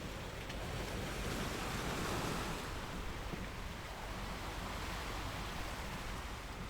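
Sea waves on the shore: a steady rushing surf that swells about two seconds in as a wave breaks, then eases back.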